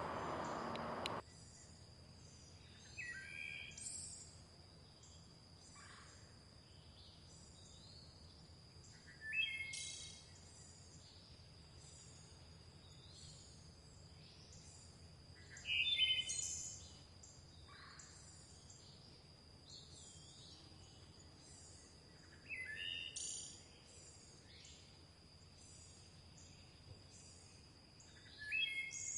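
Songbirds singing in a forest: one bird repeats the same short song phrase about every six to seven seconds, five times, over faint high chirps from other birds and a steady high-pitched whine. A loud rushing noise fills the first second and then cuts off suddenly.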